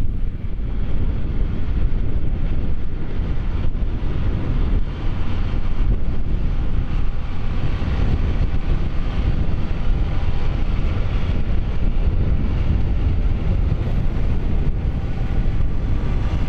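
John Deere 6150R tractor running steadily while ploughing, with heavy wind buffeting on the microphone.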